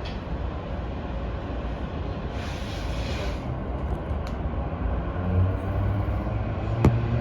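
Sobu Line electric commuter train running along the track, heard from inside the train: a steady low rumble with a brief hiss about two and a half seconds in. From about five seconds in, a faint motor whine rises gently, and near the end the wheels give a sharp click, as over a rail joint.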